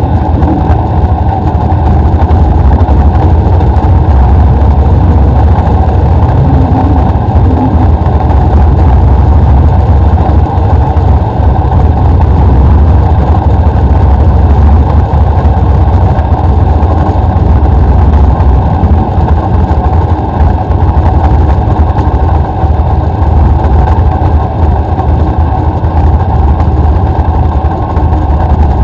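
BriscA F1 stock car's V8 engine running loud and steady, heard from a camera mounted on board the car.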